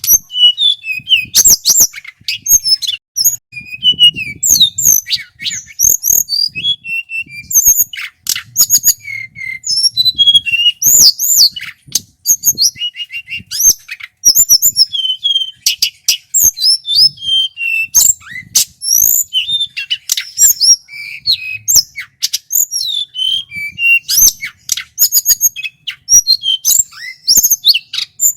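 Male tledekan gunung singing non-stop in full song: a fast, varied run of high whistles, rising and falling glides, chirps and short trills with barely a pause.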